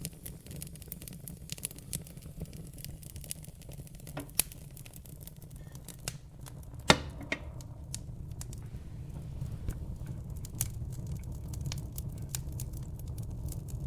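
Wood fire burning in a fireplace: irregular sharp crackles and pops over a low steady rumble, with one loud pop about seven seconds in.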